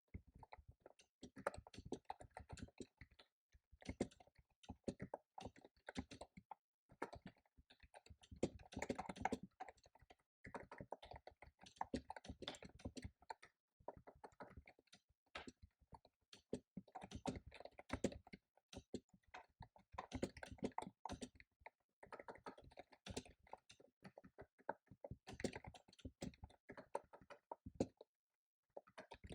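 Typing on a computer keyboard: quick runs of keystrokes broken by short pauses, stopping briefly near the end.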